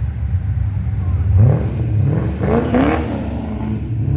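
A car engine revving up as it accelerates, its note climbing twice in the middle, over a steady low engine rumble.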